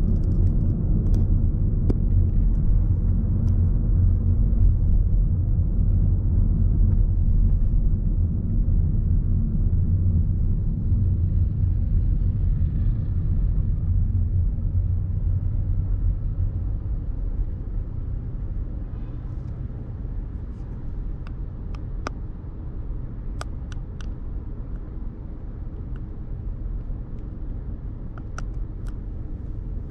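City street traffic: a steady low rumble of passing cars, louder for the first half and easing off a little after about sixteen seconds, with a few sharp ticks near the end.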